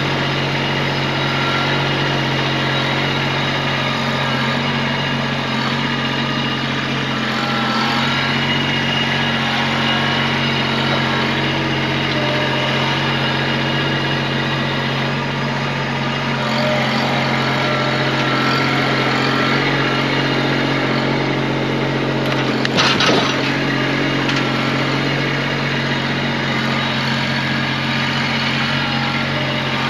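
Tractor engine running at a steady speed throughout. About 23 seconds in there is one sharp knock or clank, the loudest moment.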